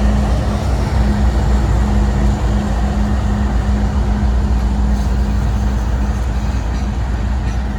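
Freight train passing close by: a steady low drone and rumble with a constant hum.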